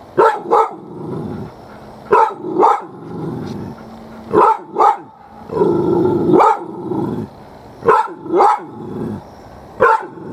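Puppy alarm-barking at a cicada shell: sharp barks in pairs, a pair about every two seconds, with low growling in between.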